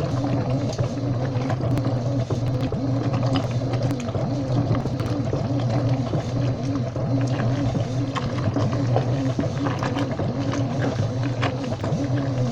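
Washing machine running, with a steady low motor hum, a wavering tone above it and scattered light clicks.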